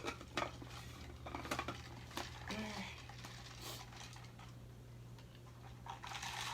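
Light, scattered clinks and clicks of cutlery against a dish during a seafood and pasta meal.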